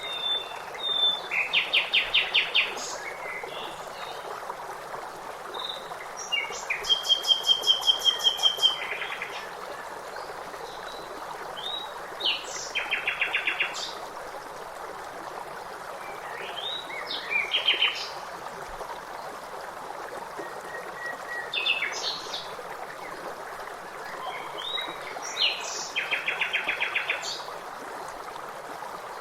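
Songbirds singing short phrases every four to five seconds, many of them quick trills of evenly spaced notes, over a steady rush of running water.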